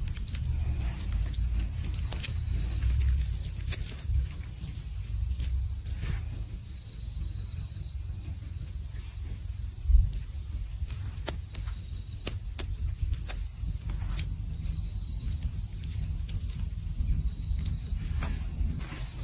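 An insect trilling without a break in a fast, even pulsing at a high pitch, over a low rumble with scattered small clicks and a louder tap about ten seconds in.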